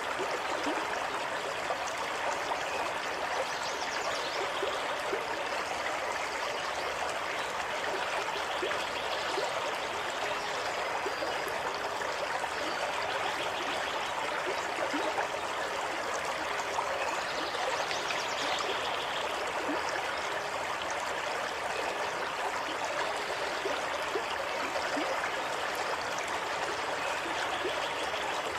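Water running steadily over stones in a stream, trickling and gurgling at an even level.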